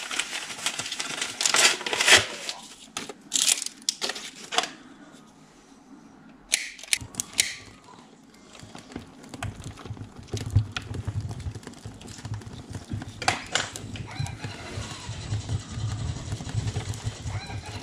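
Paper and firewood rustling and knocking as a fire is laid in a home fireplace, with a few sharp clicks midway. Then a steady low rushing with fine crackle as the wood fire starts to catch.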